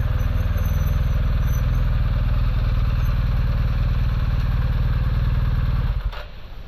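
BMW adventure motorcycle's engine running steadily, then stopping suddenly near the end.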